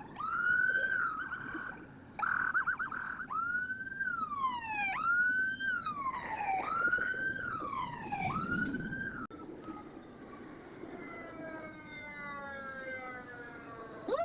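Fire truck siren: a wail that rises and holds, then cycles in repeated rise-and-fall sweeps about every second and a half. After about nine seconds it gives way to a slower tone with several pitches sliding downward, and a new siren rises at the very end.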